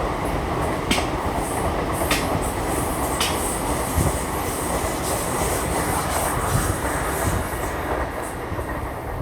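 Hitachi Class 800 train running past, a steady rush of wheels on rail, with a few sharp clicks in the first few seconds.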